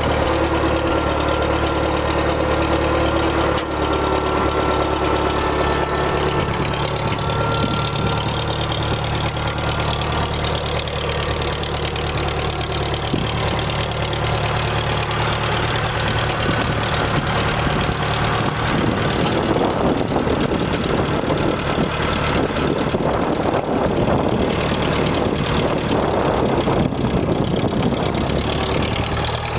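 A 1974 International Harvester 574 tractor's engine idling steadily. About two-thirds of the way through, the sound turns rougher and noisier before settling back to the even idle near the end.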